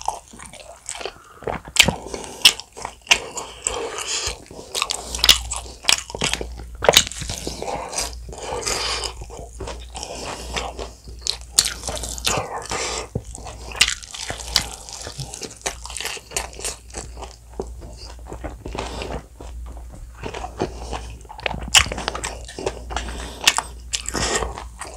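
Close-miked biting and chewing of bone-in fried chicken glazed in a thick spicy sauce: irregular sharp crunches of the fried coating mixed with steady chewing.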